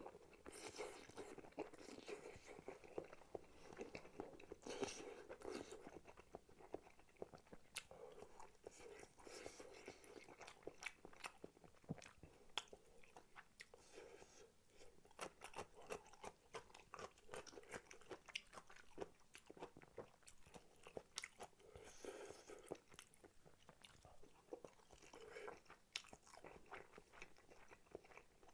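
Close-miked, faint chewing of spicy tteokbokki: soft, wet mouth noises with many small sharp clicks.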